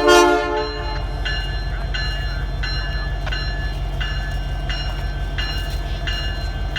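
A diesel train's air horn sounds a blast that ends within the first second. Then a bell rings steadily, about three strokes every two seconds, over the low, steady rumble of the idling locomotive engines.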